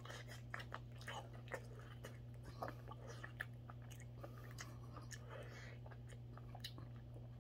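A person chewing a mouthful of soft mackerel rice porridge, faint, with small scattered wet mouth clicks over a steady low hum.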